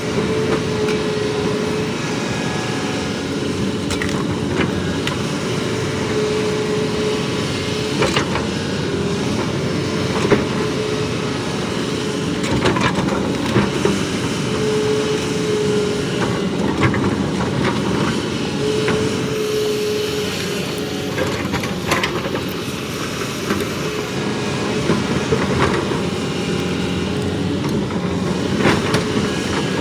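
Heavy diesel excavator running steadily under load, with a whine that comes and goes and scattered sharp knocks.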